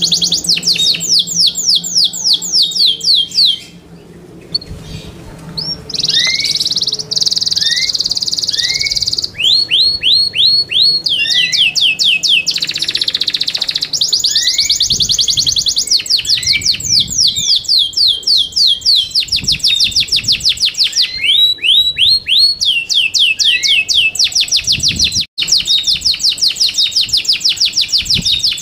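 Yorkshire canary singing loudly in long, fast trills of rapidly repeated sweeping notes, with short pauses and changes of phrase between the rolls.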